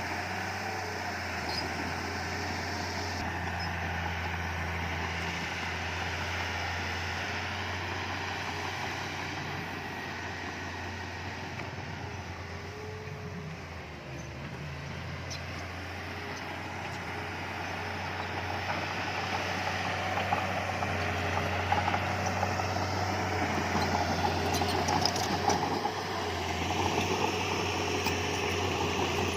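Diesel engine of heavy earthmoving machinery running steadily. It eases off about halfway through, then grows louder again, with a few sharp clicks near the end.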